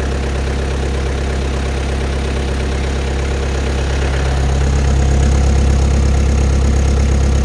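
Diesel engine of a 2006 Bobcat T250 compact track loader idling steadily as it warms up after a cold start in below-freezing air, growing a little louder past the halfway point.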